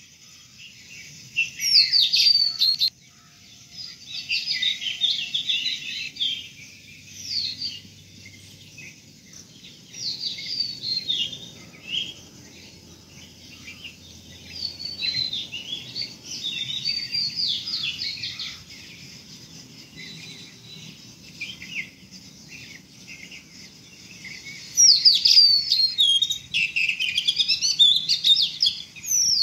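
Small songbirds chirping and singing in overlapping bursts of quick, high notes, busiest at the start and again near the end.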